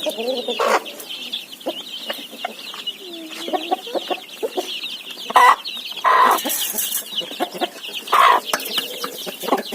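Domestic chickens clucking over a steady chorus of high cheeping, with a few louder calls about halfway through and again near the end.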